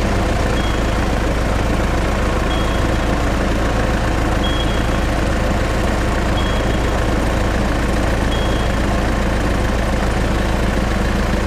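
Steady, unchanging engine idle sound with a deep hum, and a faint short high beep repeating about every two seconds.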